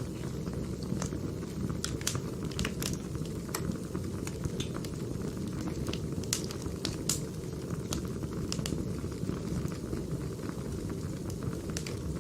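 Firewood burning: a steady low rush from the fire, with irregular sharp crackles and pops from the logs.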